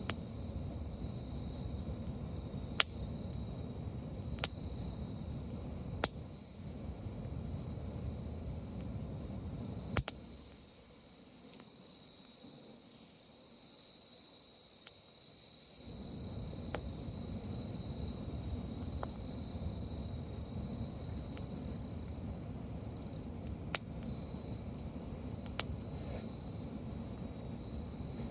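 Wood campfire with a handful of sharp crackling pops, over a steady high trilling of insects. A low rumble underneath drops away for several seconds in the middle.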